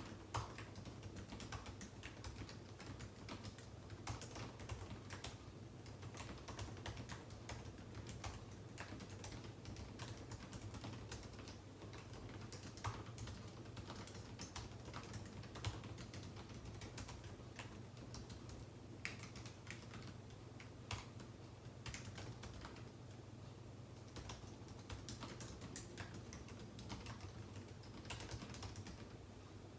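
Typing on a computer keyboard: a continuous, irregular run of keystrokes with now and then a louder key strike, over a faint steady low hum.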